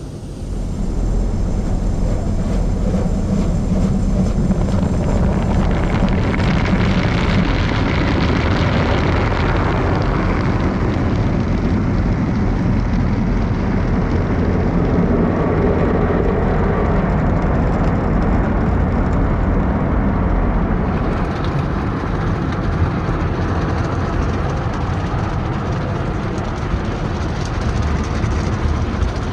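Car wash tunnel machinery running with a loud, steady rushing noise that comes up sharply about a second in.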